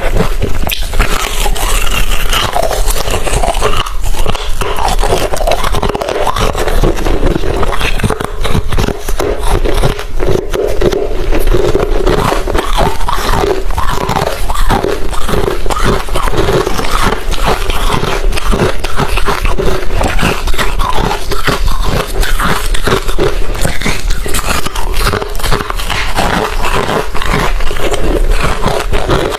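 Hard refrozen crushed ice being chewed close to the microphone: continuous, dense crunching with no pauses.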